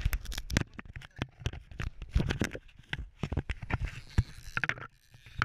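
A rapid, irregular series of knocks, taps and scrapes, easing off near the end.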